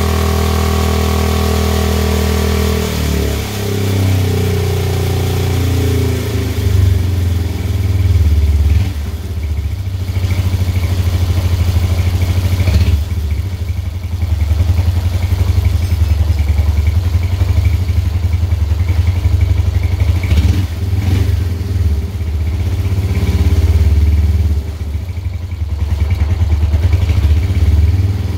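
Suzuki Intruder 250 motorcycle engine running: a steady fast idle for about three seconds, then the revs drop and it settles into an uneven, pulsing low idle.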